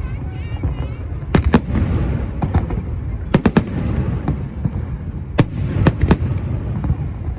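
Aerial fireworks shells bursting: about a dozen sharp booms, several coming in quick pairs and triplets, over a continuous low rumble of further bursts.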